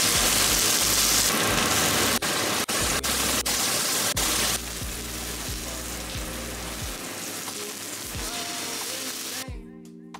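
Food sizzling in hot oil in a frying pan, loud with a few brief breaks for the first four or five seconds, then softer, and cutting off shortly before the end. Background music with a steady bass plays under it.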